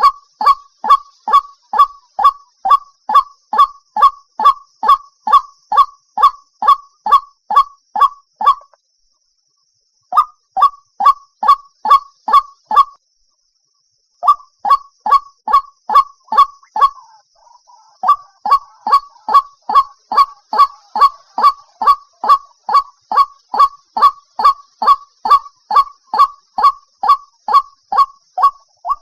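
White-breasted waterhen calling: a fast, regular string of short notes, each sliding down in pitch, about two and a half a second, broken by two pauses of a second or so, about a third of the way in and near halfway.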